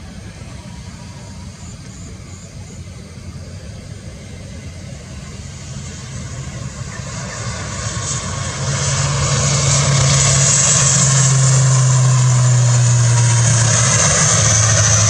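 ATR 72 twin-turboprop airliner growing louder as it comes closer, then running at full volume from about nine seconds in with a steady low hum and a high whine.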